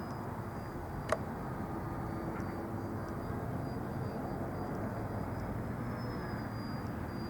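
Radio-controlled model airplane's motor and propeller running steadily in flight, with a single sharp click about a second in.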